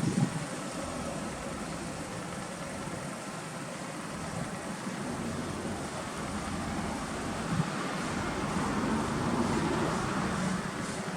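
Steady hum of a car engine running, swelling slightly near the end.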